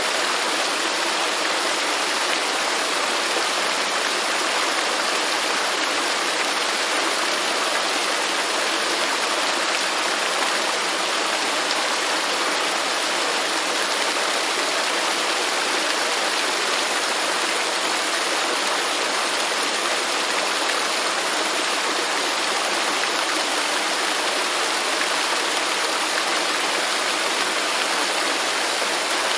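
Waterfall: water pouring and splashing in a steady, unbroken rush, with little low rumble.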